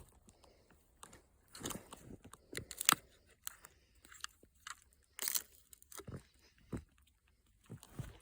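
Irregular crunches of snow and small plastic clicks and rustles as a trail camera is handled, with the louder crunches coming about 1.5, 3 and 5 seconds in.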